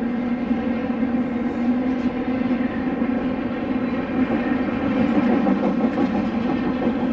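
Freight train rolling past, its cars running steadily over the rails with a constant humming tone in the rumble.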